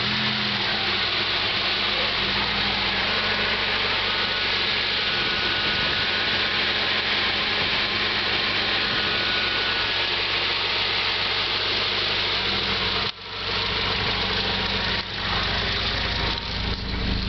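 1997 Chevrolet Kadett GL's 2.0-litre MPFI four-cylinder engine idling steadily, with a brief sudden dip in the sound about two thirds of the way through, another shortly after, and some unsteadiness near the end.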